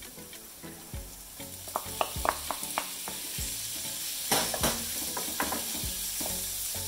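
Raw shrimp sizzling as they go into hot olive oil and shallots in a frying pan, with a wooden spoon knocking against the pan as they are stirred: a run of light clacks, then two louder knocks a little over four seconds in, over a steady frying hiss.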